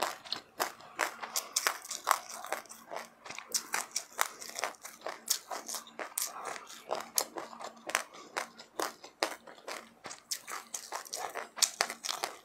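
Close-miked chewing of sesame seeds and passionfruit: sharp, crisp crunches come a few times a second at an uneven pace.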